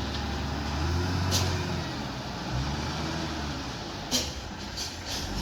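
A heavy vehicle engine running, its pitch swelling up and down a couple of times, with a few sharp clicks or knocks.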